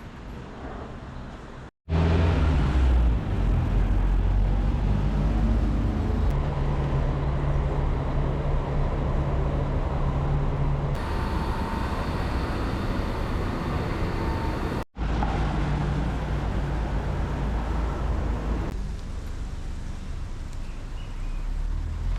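Street traffic: vehicle engines running with a steady low hum over road noise. The sound changes abruptly twice, about two seconds in and again near fifteen seconds.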